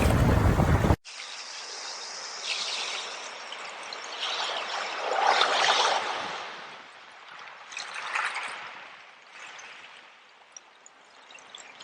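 A loud rush of surf and wind cuts off abruptly about a second in. Running water from a small stream takes over, trickling and splashing in uneven swells that rise and fall every second or two.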